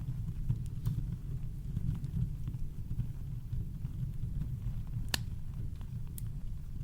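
Campfire crackling sparsely, with a sharp pop about five seconds in and a couple of fainter snaps, over a steady low rumble of brown noise.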